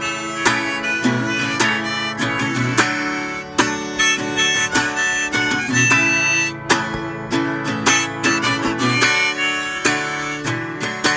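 Instrumental break of an acoustic country-blues song: a harmonica plays a melody over strummed acoustic guitar.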